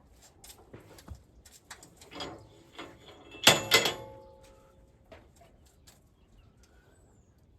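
Scattered light clicks and knocks of hard objects, then two loud sharp knocks close together about three and a half seconds in, each ringing briefly.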